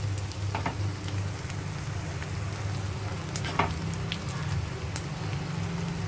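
Rice, egg and onion sizzling gently in oil in a nonstick wok, over a steady low hum. Two sharper knocks, about half a second in and again about three and a half seconds in, stand out above the sizzle.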